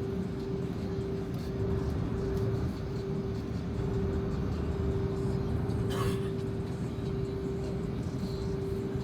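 Cabin noise inside an Airbus A330-300: a steady low rumble with a constant hum, and a single sharp click about six seconds in.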